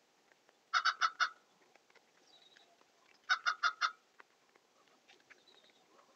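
A bird calling: two quick runs of four short, evenly spaced notes about two and a half seconds apart, over faint scattered ticking.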